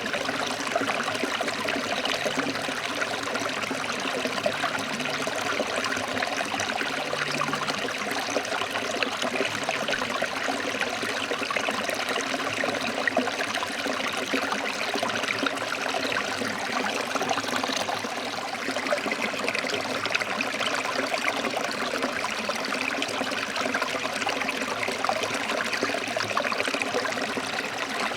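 A stream running over rocks: a steady, even rush of water with constant small splashes and trickles.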